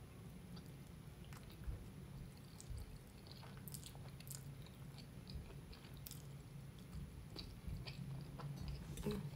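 A person chewing mouthfuls of soft, cheesy lasagna close to the microphone, with scattered wet mouth clicks and smacks over a low steady hum.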